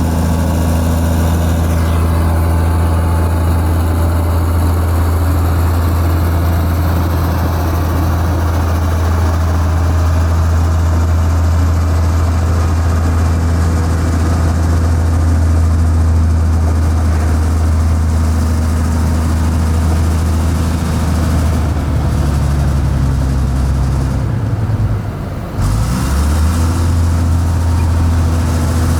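Heavy diesel engine of construction machinery running steadily at a constant speed; a few seconds before the end its speed sags and dips sharply, then picks back up.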